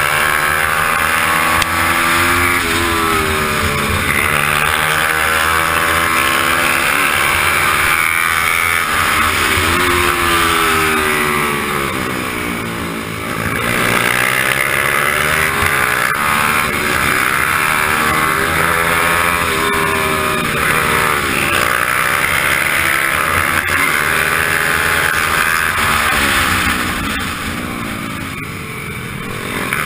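Racing motorcycle engine heard from the bike itself on track, the revs repeatedly climbing and falling through the gears and easing off twice, about halfway through and near the end, with a steady rush of wind over the microphone.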